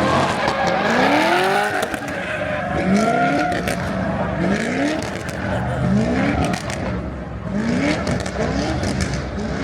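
A car engine revving up again and again, its pitch climbing in short sweeps about once a second, over a rush of tyre noise, as in a burnout or donuts.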